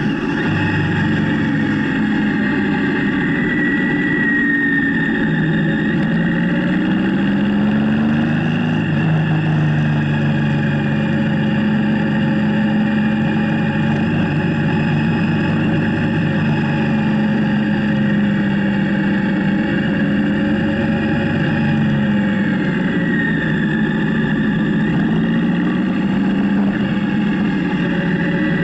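Motorcycle engine running under way. Its note falls and rises a few times as the throttle and speed change, over steady wind and road noise.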